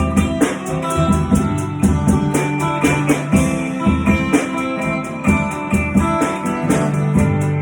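Instrumental break of a slow folk-rock song: guitars playing over a steady drum beat, with no singing.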